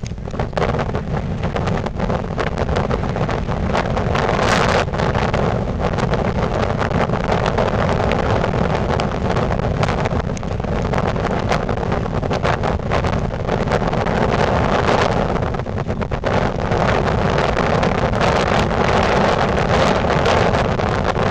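Wind buffeting the microphone: a loud, rough rushing noise that flutters and gusts throughout, with no engine tone.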